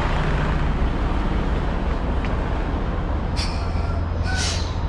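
Semi-truck diesel engine idling with a steady low rumble. Near the end, two short hisses of compressed air come from the rig's air system.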